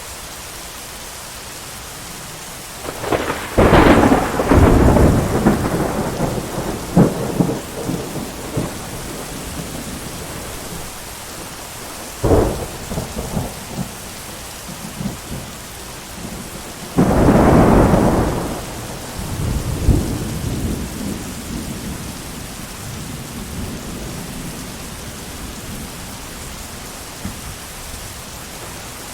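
Thunderstorm: steady heavy rain with three thunder strikes. A loud clap about three seconds in rumbles on for several seconds, a sharp crack comes about twelve seconds in, and another loud clap about seventeen seconds in rolls away over the next few seconds.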